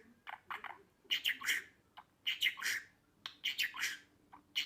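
Budgerigar chirping and chattering in short clusters of quick high notes, about one burst a second.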